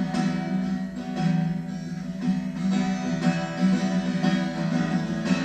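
Live song accompaniment with no singing: a guitar playing a steady instrumental passage between sung lines.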